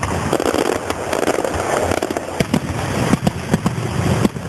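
Fireworks going off at a display: a continuous noise of bursts with many sharp crackles and pops in quick succession.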